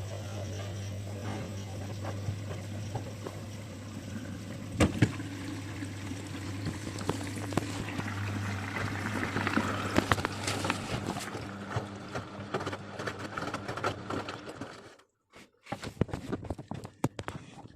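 Bosch Avantixx 6 washing machine running mid-cycle: a steady motor hum with water sloshing in the turning drum and scattered knocks. About fifteen seconds in it goes almost silent, then a few clicks follow.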